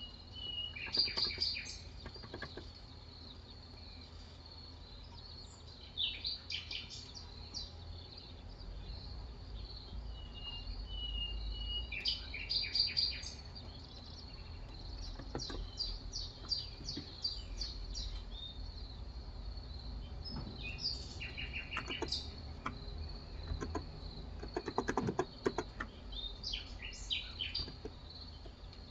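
Birds chirping in short bursts of rapid notes every few seconds, with a few brief whistled notes, over a steady high-pitched insect drone. A few soft keystrokes on an electro-capacitive keyboard are scattered among them.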